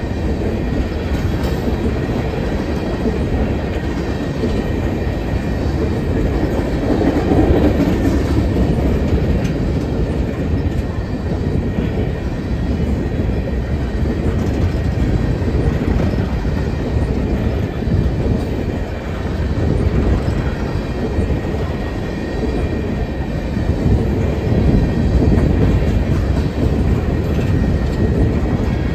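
Freight train of loaded coal hopper cars rolling through a grade crossing: a steady low rumble of steel wheels on the rails with a continuous rapid clatter from the passing trucks.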